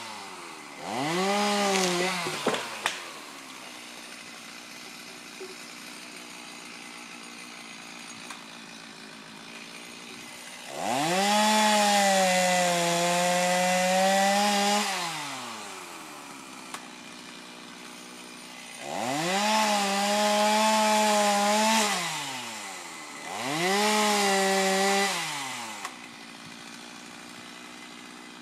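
Two-stroke chainsaw idling and being revved up to full throttle four times, each burst held for a few seconds and then dropping back to idle.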